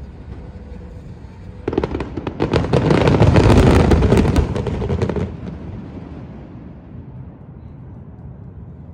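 Aerial fireworks shells bursting in a dense barrage. Rapid cracks and booms start about two seconds in and are loudest for about three seconds, then die away into a fading rumble.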